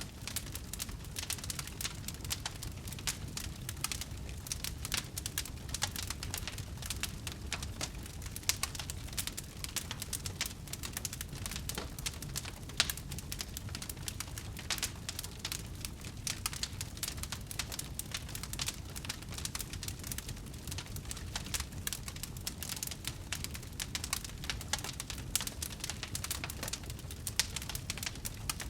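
Wood fire burning with dense, continuous crackling and small pops over a low rumble, with one louder pop a little under halfway through.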